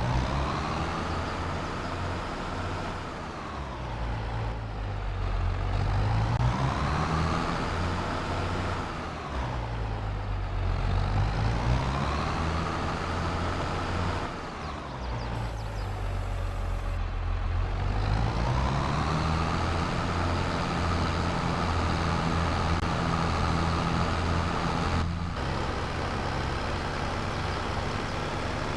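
Tractor engine running. Its note drops and climbs again about three times, then holds steady.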